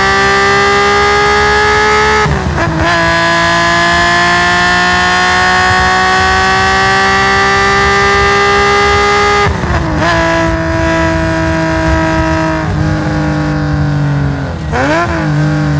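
Nissan S20 twin-cam straight-six of a race-tuned Hakosuka Skyline GT-R at full throttle. It revs up steadily, drops in pitch at a quick upshift about two and a half seconds in, then climbs again for several seconds. About nine and a half seconds in the throttle lifts and the revs fall away, with short throttle blips near the end as it downshifts.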